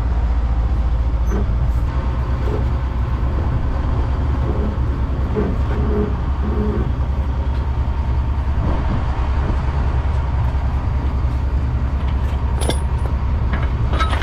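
Boat engine running steadily under way, a loud, even low drone with a few light knocks near the end.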